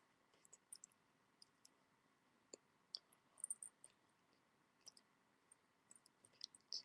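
Near silence with scattered faint, sharp clicks and taps at irregular intervals, a few bunched together about three and a half seconds in.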